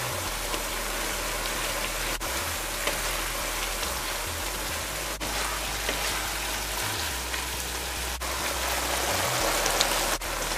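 Cubed pumpkin frying in oil in a non-stick wok, giving a steady sizzling hiss as it is stirred with a wooden spatula.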